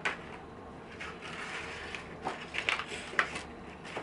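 Hands working on the opened LED TV's backlight parts: a sharp click, a stretch of rustling from the plastic sheets, then a quick run of plastic clicks and rattles.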